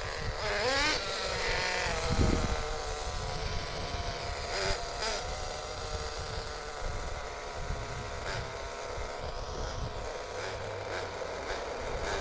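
Small two-stroke glow (nitro) engine of a CEN MG10 1/10 RC monster truck running at a high-pitched drone. It gives a quick rev about half a second in, then holds a steady note that slowly drops in pitch.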